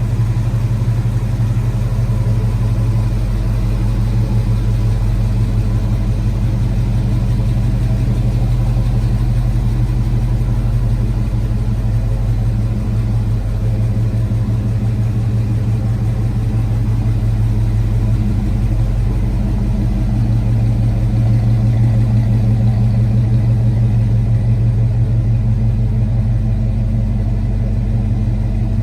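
1975 Ford F250 Highboy pickup's engine idling steadily, a little louder for several seconds about twenty seconds in.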